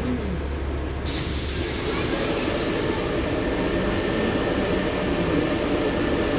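LiAZ-6213.65 articulated city bus: a sharp compressed-air hiss from its pneumatics starts about a second in and lasts about two seconds. After it the engine runs on under a steady rumble with a faint whine as the bus sets off from the stop.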